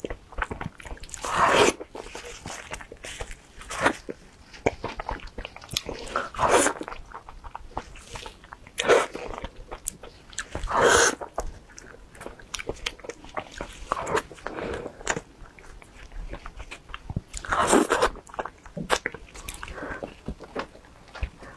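Close-up eating sounds of a person chewing soft durian flesh: many small mouth clicks with a louder bite or smack every two seconds or so.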